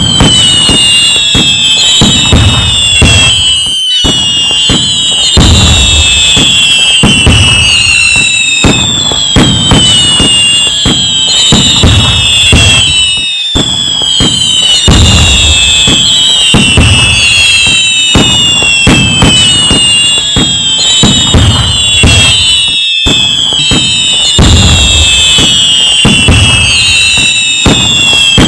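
Fireworks: many whistles falling in pitch over dense crackling and low booms, with a brief break about every nine to ten seconds.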